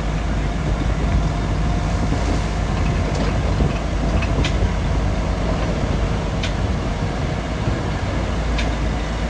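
Crawler bulldozer running under steady engine load, with its steel tracks clanking and squeaking every second or two as it moves.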